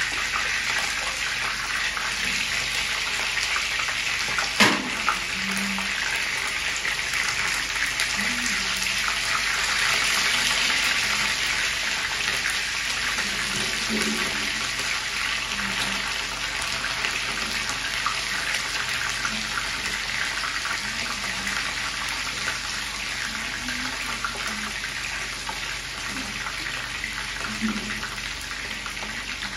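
Chicken pieces and red onion sizzling in hot oil in a frying pan, a steady hiss. There is a single sharp knock about five seconds in.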